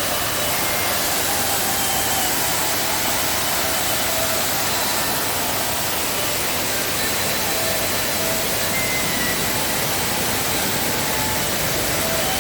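Waterfall cascades in rainy-season spate, a steady loud rush of falling water.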